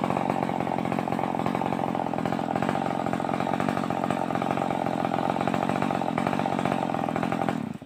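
Stihl 038 two-stroke chainsaw running steadily at an even pitch, cutting off suddenly near the end.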